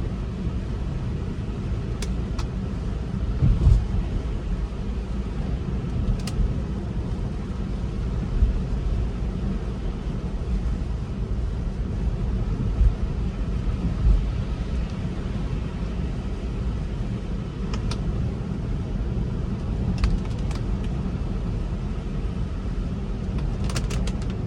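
Road noise of a Tesla Model 3 driving on wet roads in snow and rain: a steady low rumble of tyres on the road, with a few faint ticks.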